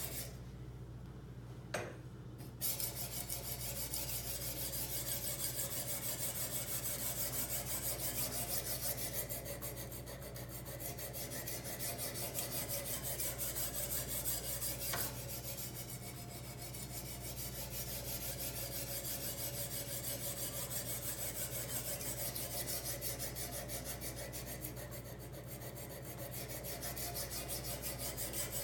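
150-grit sharpening stone of a guided knife sharpener rubbing along a large kitchen knife's edge in fast, continuous back-and-forth strokes, a steady rasping scrape. The strokes pause briefly at the start and pick up again with a click after a couple of seconds. The stone is refining the edge and taking out the scratch pattern left by the first, coarser stone.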